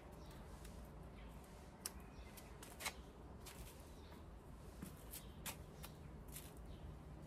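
Faint scattered clicks and leaf rustling as spent flowers are snipped and picked off potted plants.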